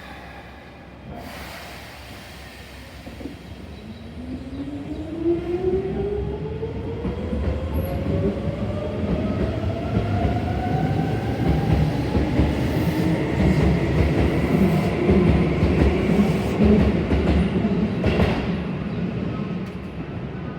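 Keisei 3600-series electric train pulling away, its traction motors whining in a rising pitch for about ten seconds as it gathers speed, over a growing rumble of wheels on rail.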